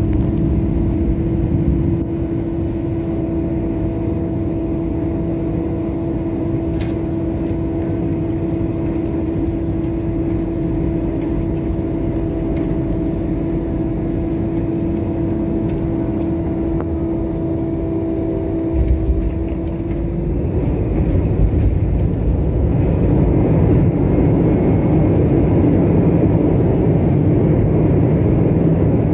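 Jet airliner cabin noise during landing: a steady engine drone with a hum, then a low thump about 19 seconds in, followed by a louder, rushing noise.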